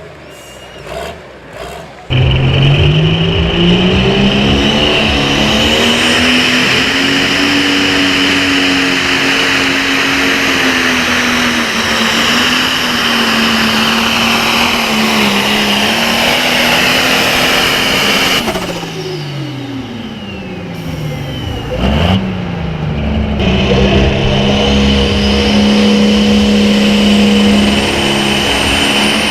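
Super Farm class pulling tractor's diesel engine running hard at high revs under load, coming in abruptly about two seconds in. The pitch holds high with slight sags, drops sharply about two-thirds of the way through, then climbs back to a steady high pitch.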